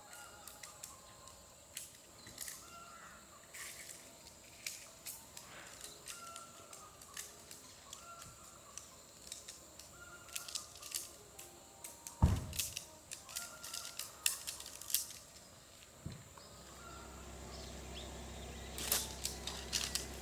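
Mountain outdoor ambience: birds chirping with many scattered sharp ticks. There is a single heavy thump about twelve seconds in, and a steady low hum begins near the end.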